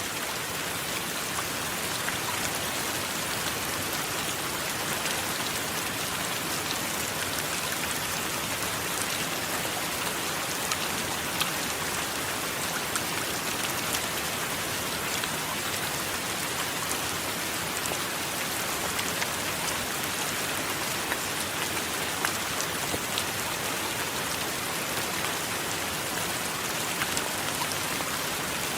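Steady heavy rain falling, with many small drop ticks scattered through it.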